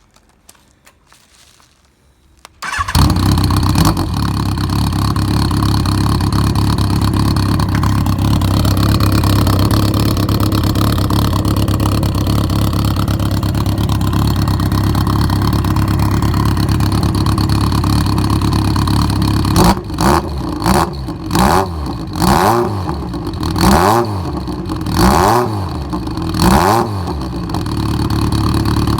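Yamaha XJR1200 motorcycle's inline-four engine starting about three seconds in and idling steadily through a thin aftermarket exhaust silencer, then revved in a series of short throttle blips, roughly one a second, over the last nine seconds.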